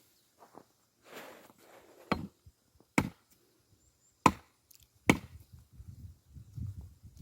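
An axe striking and splitting firewood logs: four sharp chops about a second apart, then duller low knocks of wood.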